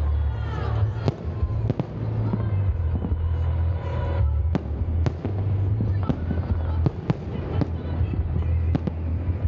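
Fireworks salute going off in many sharp cracks and bangs at an irregular pace over a continuous deep rumble.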